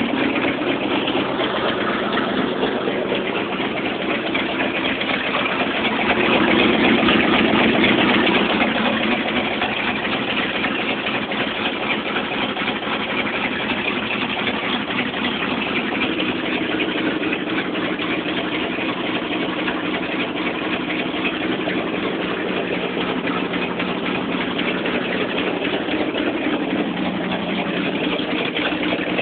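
Chevy 350 four-bolt-main V8 in a 1985 Chevy pickup idling steadily, warming up after a cold start in 7-degree cold. It runs briefly louder about six seconds in, then settles back to a steady idle.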